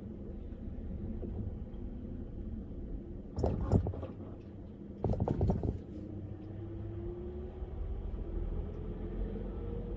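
A car driving along a highway: steady low road and engine rumble. Two loud bursts less than a second long come about three and five seconds in, and a faint hum rises slowly in pitch over the last few seconds.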